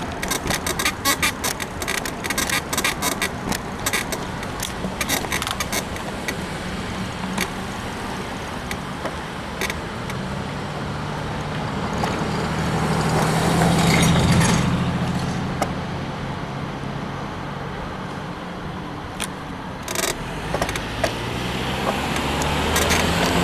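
A suspension bicycle ridden over rough pavement: a quick run of clicks and rattles as it goes over bumps, with wind on the microphone. The rider puts the creaking down to a worn suspension bushing on the frame. About midway a passing motor vehicle swells and fades, and another vehicle grows louder near the end.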